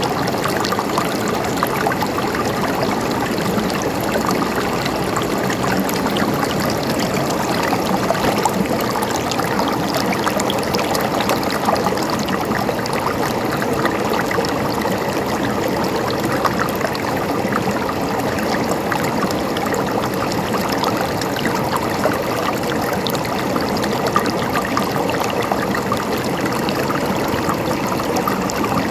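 Mountain stream babbling and trickling steadily over rocks.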